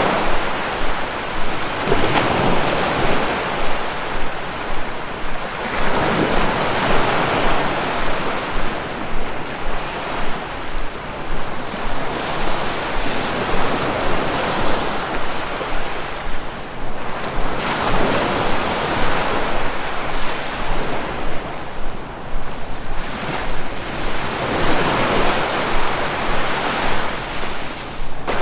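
Sea waves washing onto the shore, a continuous rush of surf that swells and eases every few seconds as each wave breaks and draws back.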